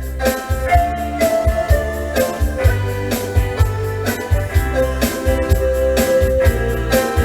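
Yamaha Electone electronic organ playing an upbeat pop tune: held melody and chord notes over a steady bass line and a regular drum beat.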